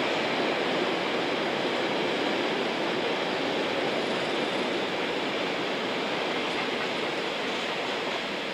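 A train rolling past on the rails: a steady rushing noise of wheels on track, with no squeal, slowly fading toward the end.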